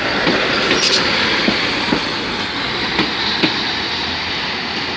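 Class 156 diesel multiple unit moving through the station: a steady rumble of running noise, with irregular clicks of the wheels over rail joints and points.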